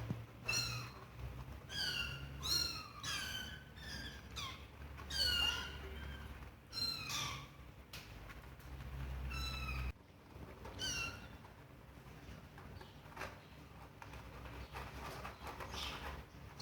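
Kittens mewing repeatedly in short, high-pitched calls that fall in pitch. The calls come thick and fast for about ten seconds, then thin out.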